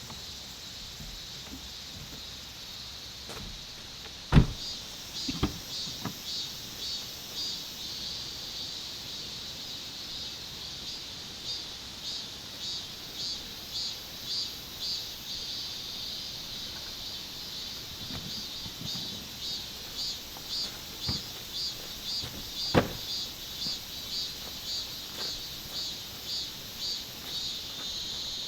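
Insects chirping in a steady rhythm, about two chirps a second, over a faint hiss, with a few sharp knocks, the loudest about four seconds in.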